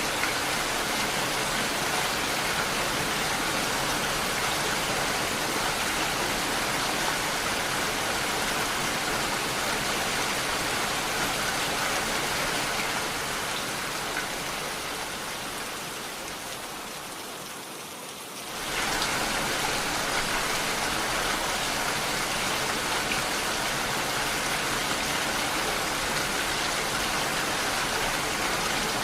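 Steady rainfall, an even hiss of many drops. About two-thirds of the way through it fades down over several seconds, then comes back suddenly at full level.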